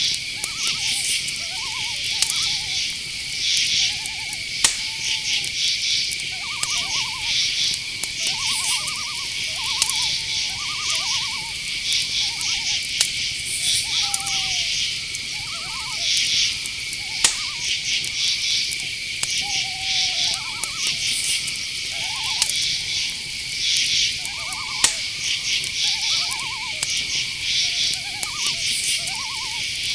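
Night chorus of crickets: a steady high trill with pulsing chirps above it. Over it, short mid-pitched calls, some sliding down, come about once a second from another night animal, and a few sharp clicks stand out.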